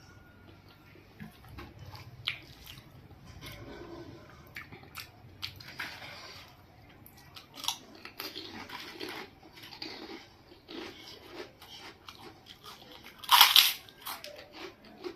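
Close-miked eating sounds: irregular wet chewing and mouth clicks of rice with lentils and okra, with a louder noisy burst near the end.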